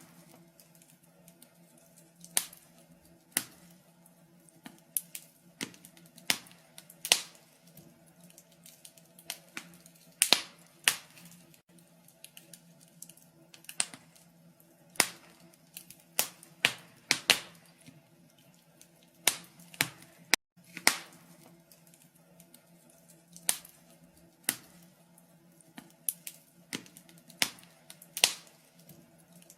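Wood fire crackling in a fireplace: sharp, irregular pops and snaps, about one or two a second, over a faint steady low hum.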